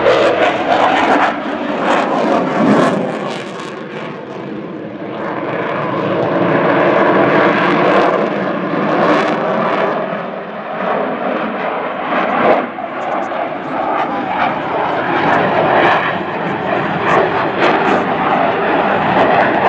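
Fixed-wing aircraft engine flying by, a continuous loud drone that fades a little about four seconds in, then swells again.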